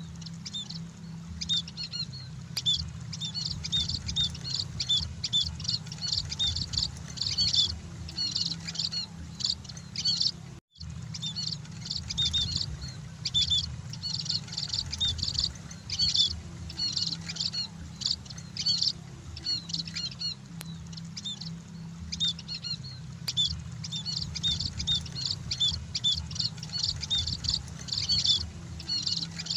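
Munias (emprit) chirping: a dense, continuous stream of short, high chirps from several birds at once over a steady low hum, broken by a brief silent gap about ten seconds in.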